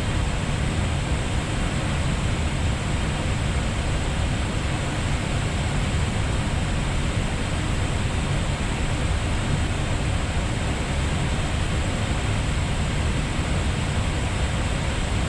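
Steady flight-deck noise of an Airbus A320neo in climb: an even rush of airflow and engine noise, heaviest at the deep end, with no changes.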